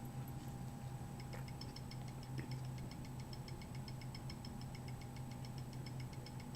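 Automatic blood pressure monitor working through a reading: a faint steady motor hum with a fast, even ticking, about six ticks a second, from about a second in.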